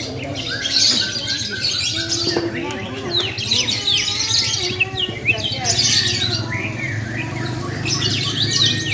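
Many lovebirds chirping and squawking together, a dense run of fast, high, sliding chirps that goes on without a break.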